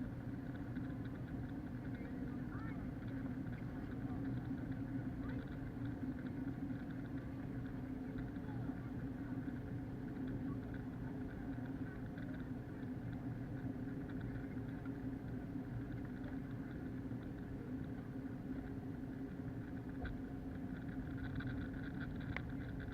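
Steady drone of an Airbus A321's cabin, with its IAE engines and airflow noise, muffled because it is recorded through an action camera's protective case.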